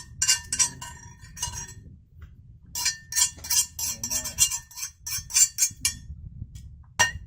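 A utensil clinks repeatedly against cookware in short runs of quick, ringing strikes, with a single clink near the end.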